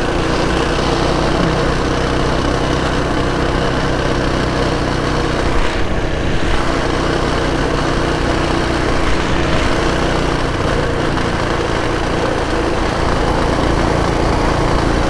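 Coleman minibike's small single-cylinder four-stroke engine running steadily as the bike rides along, its pitch staying nearly constant.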